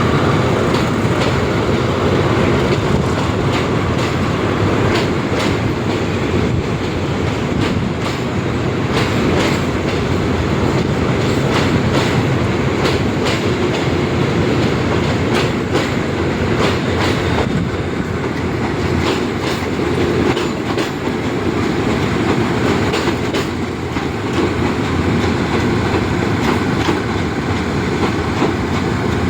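A passenger train running along the track: a steady rumble with the wheels clicking repeatedly over the rail joints.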